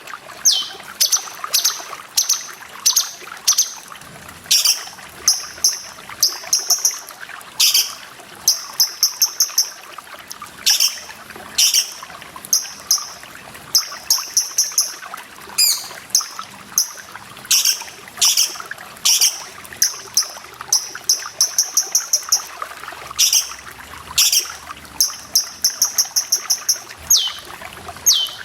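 Cucak cungkok calling over and over: sharp high notes and quick chattering runs of rapid notes, about one burst a second, over steady trickling water.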